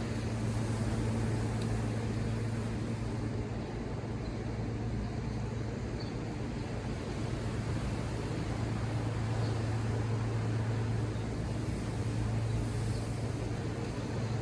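A steady low motor hum over a constant wash of ocean surf, swelling slightly a little after halfway.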